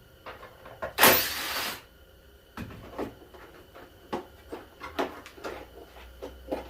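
Hand tools at work on bolts in a car's engine bay: a loud rasping burst of under a second about a second in, then scattered clicks and knocks of metal and plastic.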